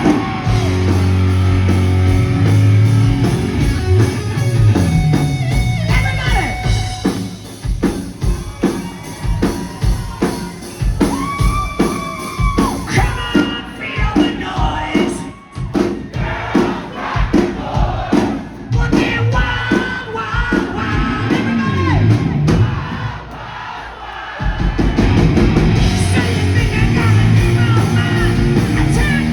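Live hard rock band playing: distorted guitar chords and drums with a singer, crowd noise mixed in. Held chords open, then a long stretch of sharp, evenly spaced band hits under the vocals, and the full band comes back in loud near the end.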